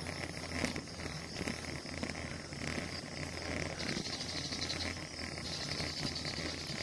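Steady wind and road rumble from a bicycle being ridden, with insects chirring from the roadside; a higher insect buzz comes in about four seconds in and fades about two seconds later.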